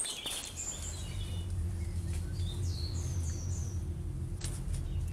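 Small birds chirping: several short, high calls that fall in pitch, over a low steady rumble.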